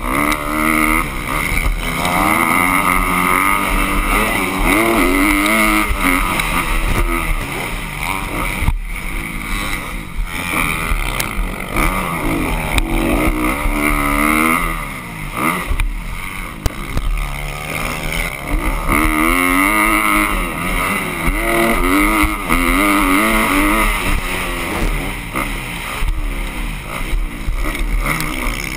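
Motocross dirt bike engine revving hard, its pitch climbing with each burst of throttle and dropping off between, again and again.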